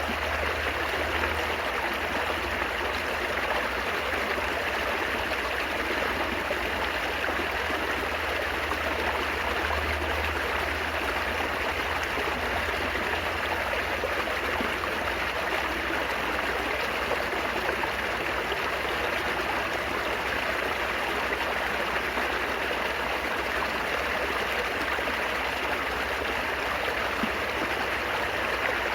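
Running water babbling and trickling steadily, as of a small stream, an even rushing sound with no breaks.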